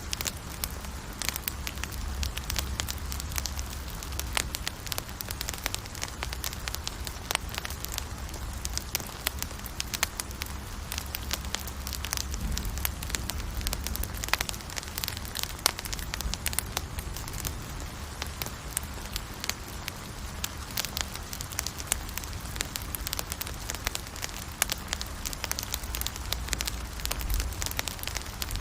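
Campfire burning, crackling continuously with frequent sharp pops and snaps over a low steady rumble.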